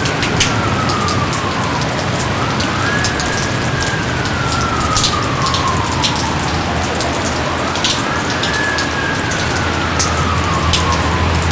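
Steady heavy rain with scattered close drops splashing. A faint tone rises quickly and then slides slowly down, three times, about every four and a half seconds.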